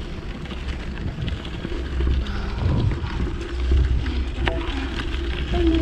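Wind buffeting the microphone while riding a bike, with scattered clicks and rattles from the ride over the path. A steady humming tone comes in near the end.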